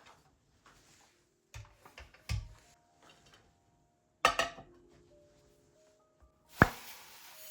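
Kitchen handling sounds: a few knocks and clinks of dishes and utensils, the sharpest one near the end. Soft background music comes in partway through.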